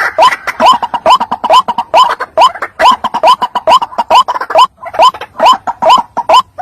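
White-breasted waterhen (ruak-ruak) lure call: short rising notes repeated about three times a second, with a brief break about two-thirds of the way through.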